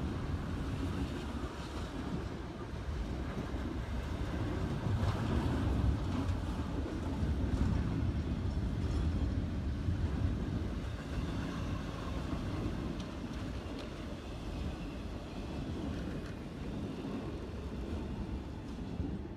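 Intermodal freight train's double-stack container cars and trailer-carrying cars rolling past with a steady rumble of wheels on rail, easing off near the end as the last car goes by.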